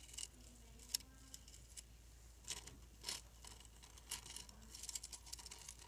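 Faint, irregular clicks and light taps, with a quicker run of small clicks near the end.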